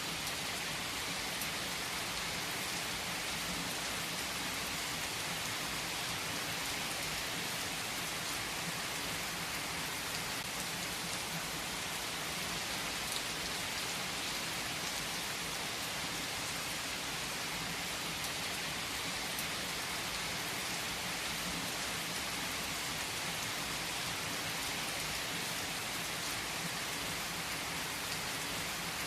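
Steady rain falling, an even hiss with a few faint scattered clicks.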